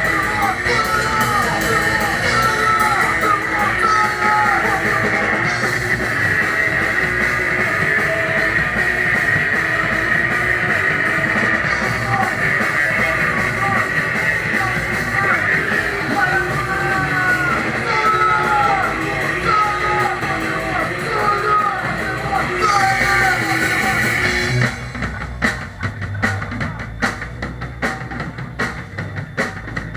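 Live rock band playing loud, with drum kit and electric guitar. About twenty-five seconds in the full sound drops away to a sparser passage of separate drum hits.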